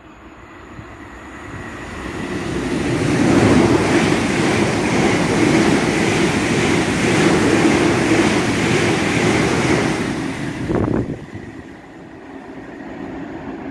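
Class 450 Desiro electric multiple unit passing through at top speed. A rushing rumble builds over about three seconds and stays loud for about seven seconds as the coaches go by. It drops away suddenly as the last coach passes, leaving a fading rumble.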